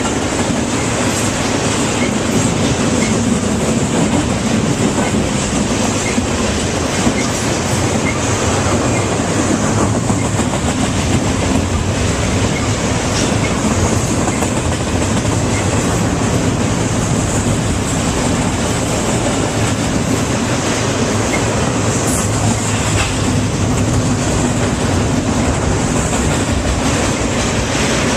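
A train rolling past on the rails: steady, loud wheel-on-rail noise that goes on without a break.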